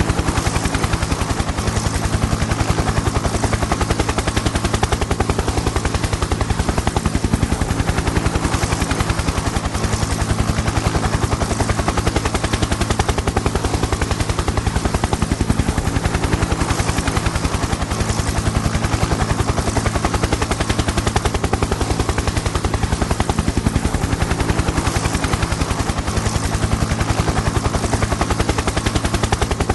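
Helicopter in flight, the rotor blades beating in a fast, even chop over a continuous low engine drone. The sound holds steady with no change in level.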